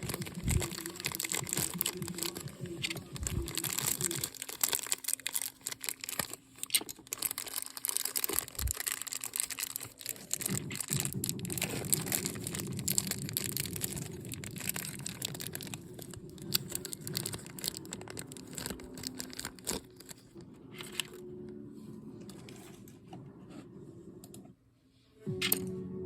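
Crinkling and rustling handling noise with many small clicks, like something being handled in packaging; music starts near the end.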